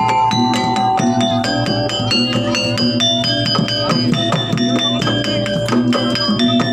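Jaranan gamelan music: bronze metallophones struck in a fast, even run of notes, about five a second, ringing over drums.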